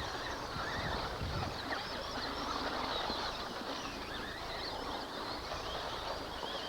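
Several electric RC off-road trucks racing on the track. Their motors whine, overlapping and sweeping up and down in pitch as they throttle on and off around the course.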